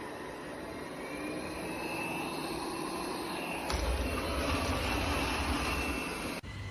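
Robot vacuum running: a steady whirring from its suction motor and brushes, with a faint whine rising in pitch. A click about halfway through is followed by a louder low rumble, and the sound cuts off abruptly near the end.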